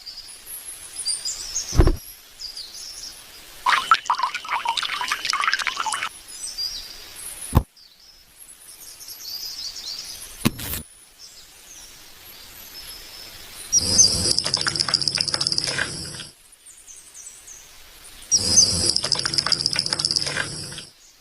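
Birds chirping and calling on and off, broken by a few sharp clicks. There are two louder rattling stretches, one a little past halfway and one near the end.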